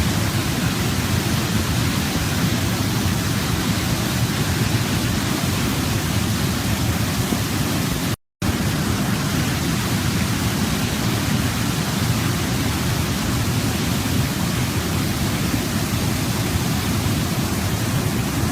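Waterfall: a steady, even rush of falling water. The sound cuts out completely for a fraction of a second about eight seconds in, then resumes unchanged.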